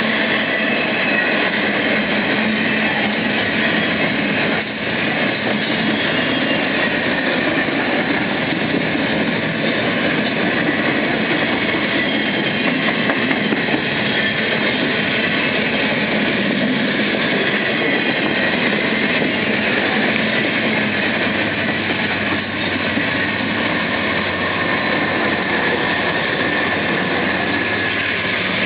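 BNSF freight train passing close by: a loud, steady rolling noise of steel wheels on rail.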